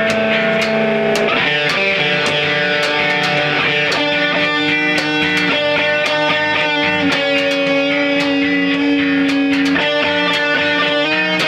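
Live band music: electric guitar chords ringing out and changing every few seconds over a steady beat of cymbal ticks.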